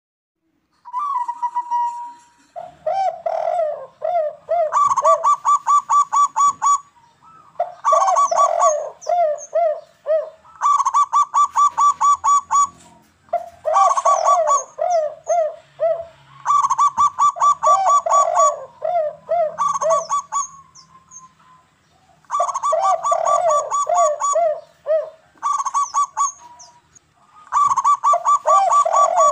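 Zebra doves (perkutut) cooing in repeated phrases of two to three seconds, each a quick run of rapid, even notes over lower looping coos, with short pauses between phrases. It is a lure recording meant to set caged doves calling.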